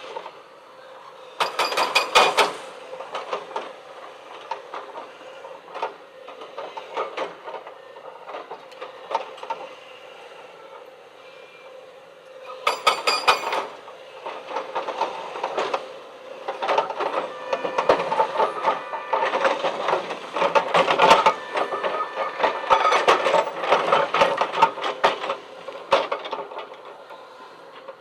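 Remote-control excavator's small electric motors and gears whirring with rapid clicking and clattering, with short louder whirs about 2 s and 13 s in and a busier, louder stretch of clatter from about 17 s to 26 s.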